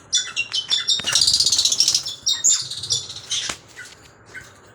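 Pet parrots chirping in quick, short, high calls, building to a dense run of rapid chatter about a second in, then thinning to scattered chirps near the end.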